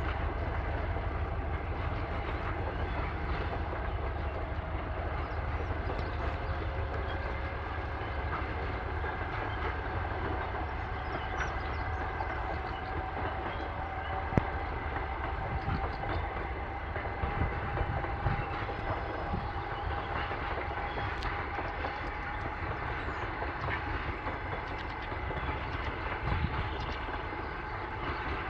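TEP70 diesel locomotive hauling a passenger train on the move: a steady rumble with drawn-out tones, one slowly rising in pitch, and a single sharp click about halfway through.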